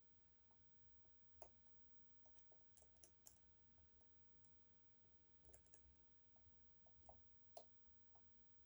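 Faint, irregular small metallic clicks of a short flat hook and tensioner working the sliders inside an EVVA 3KS high-security lock during picking, with a louder click about a second and a half in and another near the end.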